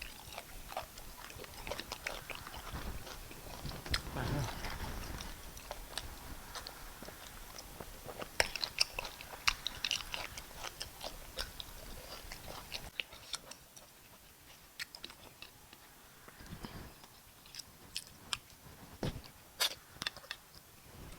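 Chewing and eating sounds of fufu with bitter leaf soup: irregular wet smacks and sharp mouth clicks, louder in the first half and quieter after about the middle.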